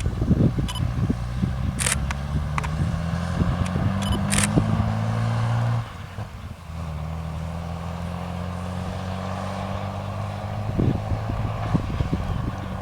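JCB 3230 Fastrac tractor's Cummins diesel engine under load, its revs slowly climbing, then falling away suddenly about six seconds in and settling to a steady, lower-pitched run. A few sharp knocks sound in the first half.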